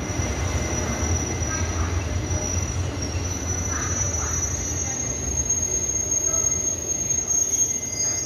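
A Taiwan Railway train rolls slowly along the platform track, its wheels giving a steady high-pitched squeal over a low rumble.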